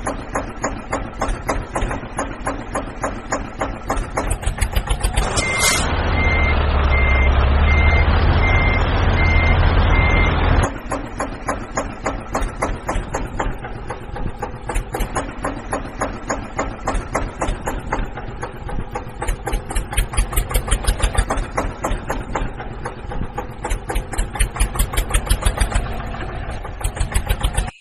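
Mini tractor engine sound running with a fast, even pulse. About five seconds in, a brief rising whistle and then a louder stretch of about five seconds with a reversing alarm beeping about twice a second.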